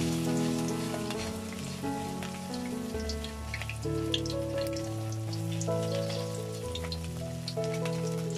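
Battered anchovy fritter sizzling in hot oil in a wok, with scattered crackling pops. Background music with held chords and bass notes plays underneath.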